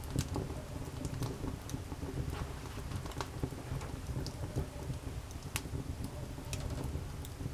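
Wood campfire crackling, with irregular sharp pops and ticks over a steady low rumble.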